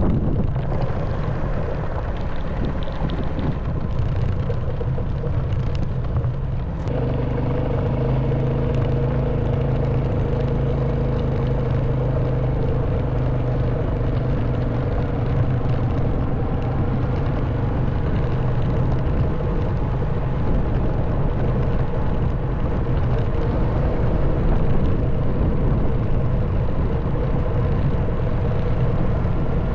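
Honda Wave 110cc single-cylinder four-stroke motorcycle engine running under way, with wind and road noise. The sound is rougher and noisier at first; about seven seconds in it settles into a steady engine drone.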